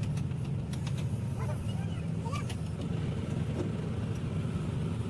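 Steady low rumble of motor vehicles running, with a few light clicks and faint voices in the distance.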